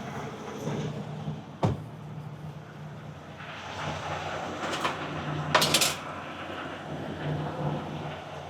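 Low hum of an idling truck, with a single sharp knock about a second and a half in and a short metallic rattle in the middle, as of parts of the trailer being handled.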